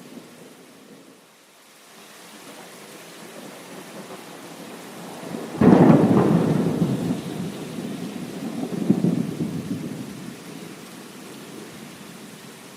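Steady rain with a thunderclap about halfway through: a sudden crack that rolls into a low rumble, swells again a few seconds later, then fades back into the rain.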